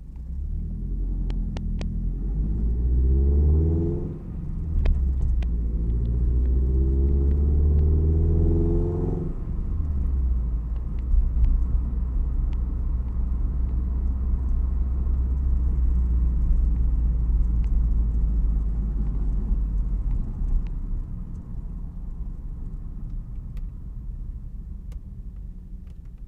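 Toyota 86 FA20 boxer four with aftermarket unequal-length headers and exhaust, accelerating with its rumbling note rising in pitch, a gear change about four seconds in, then pulling again until about nine seconds. After that it settles into a steadier, lower drone and gets quieter near the end.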